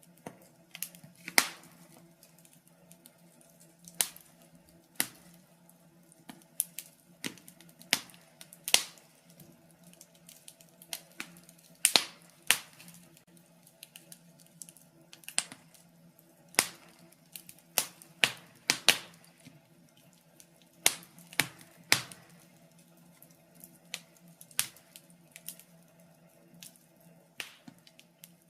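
Wood fire crackling: irregular sharp pops and snaps, sometimes several in quick succession, with a few louder snaps standing out among them.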